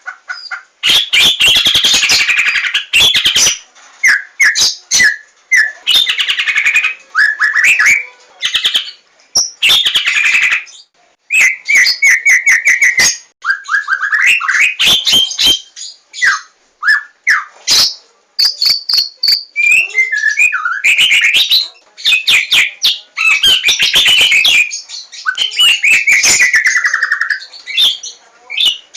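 Javan white-rumped shama (murai batu) singing a long, varied song: fast runs of repeated notes, rattles and clear whistled phrases, with brief pauses between phrases.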